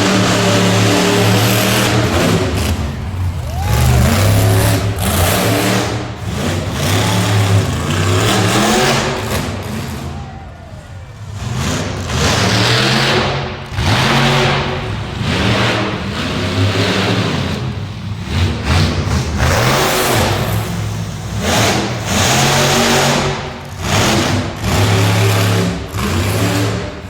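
Monster truck engine revving hard over and over, its pitch climbing and falling, with brief drops as the throttle is lifted.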